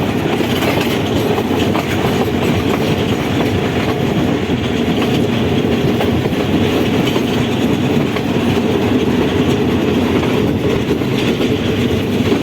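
Passenger train running along the track, a steady, unbroken noise of wheels on rails and the carriage in motion.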